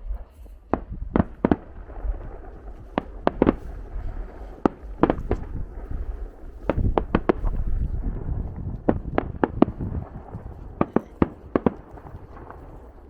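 Fireworks bursting: an irregular string of sharp cracks and bangs, many in quick clusters, over a steady low rumble.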